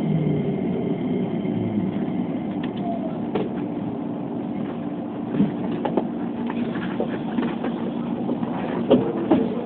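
Keikyu 2100-series electric train running, heard from inside the car: a steady rumble of wheels on track with scattered clicks and knocks, and a whine falling in pitch at the start.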